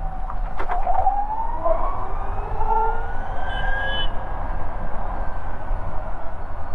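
Ather 450X electric scooter's motor whining and rising in pitch as it accelerates, cutting off sharply about four seconds in when the throttle is released, then a fainter falling whine as it slows, over steady wind and road noise. A couple of sharp clicks come just before the whine starts to climb.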